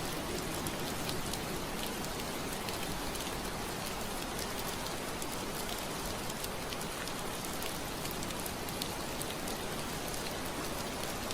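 Steady rain falling on window glass, an even hiss dotted with the ticks of single drops.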